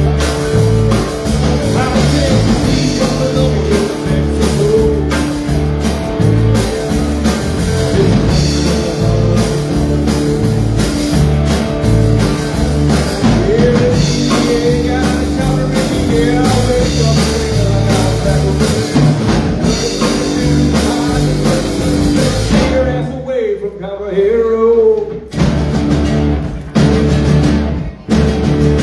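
Live band playing loud rock-and-roll-style music with electric guitar, bass and drums. Near the end the band drops out for a couple of seconds, leaving only a wavering melodic line, then comes back in.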